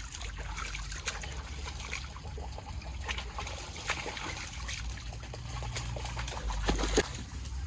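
Water trickling and splashing, with many small irregular clicks and a low rumble underneath.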